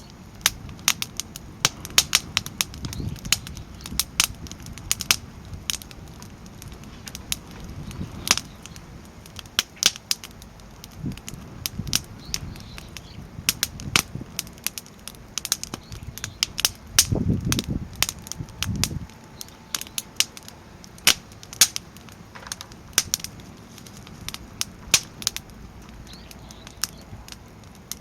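Wood fire crackling steadily with frequent sharp pops from the burning firewood, and a brief low rumble about two-thirds of the way through.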